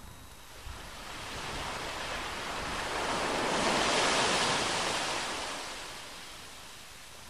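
Surf: a wave washing in, a rushing hiss that swells over about three seconds and then fades away.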